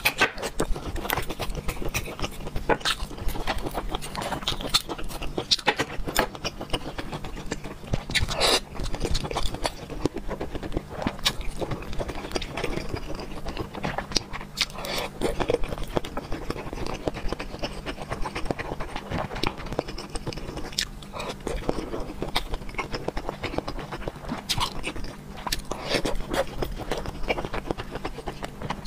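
Close-miked eating sounds: wet chewing and mouth smacks of soft food in sauce, with scattered small clicks and scrapes of the utensils.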